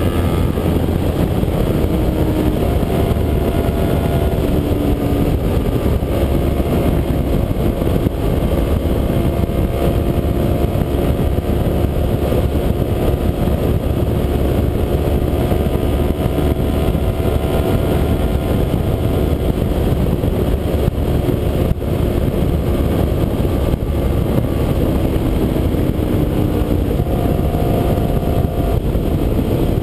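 Kawasaki Ninja 250's parallel-twin engine running steadily at cruising speed, its pitch holding nearly level with small rises and falls, over loud wind and road rush.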